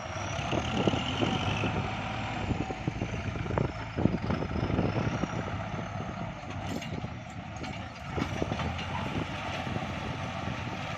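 Kubota farm tractor's diesel engine running steadily, with many irregular knocks and clatter over it.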